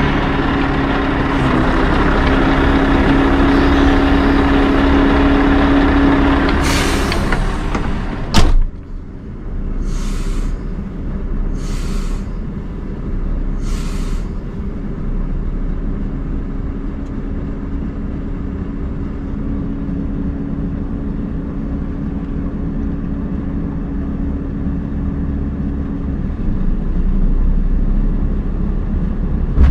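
Scania R580 truck's V8 diesel running steadily under load, with a sharp knock about eight seconds in. Three short hisses follow, about two seconds apart, and the engine drone carries on.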